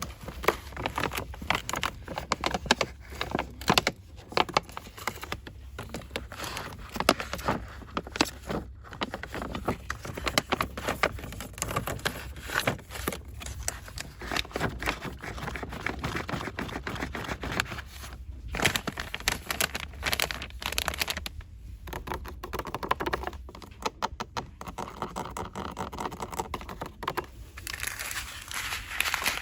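Fast ASMR tapping, scratching and crinkling on small store-bought items and their packaging, a dense run of sharp clicks and scrapes, with a quicker burst of even taps a little before the end.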